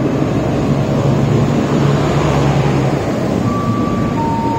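Electric commuter train (EMU) running along the track at low speed, a steady rumble of wheels and traction equipment, with a faint thin whine coming in near the end.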